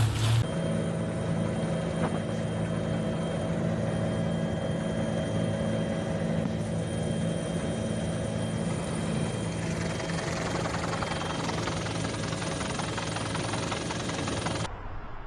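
Steady engine drone, a held low hum with a fainter higher tone above it, that cuts off abruptly near the end.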